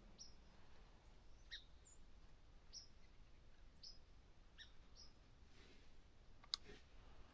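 Near-silent woods with faint, short, high bird chirps, each sliding down in pitch, about once a second. One sharp click comes near the end.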